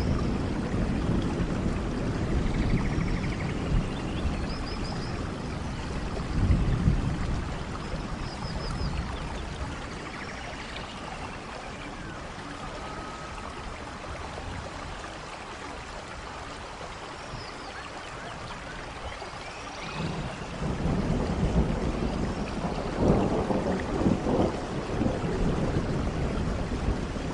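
Steady rainfall with thunder rumbling: low rolls swell near the start, again a few seconds later, and build once more in the last third, with a quieter lull of plain rain in between.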